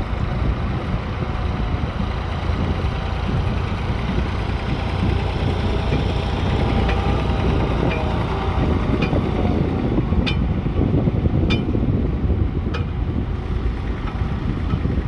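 Tractor engine running steadily with a low rumble. In the second half, sharp clicks come about a second apart.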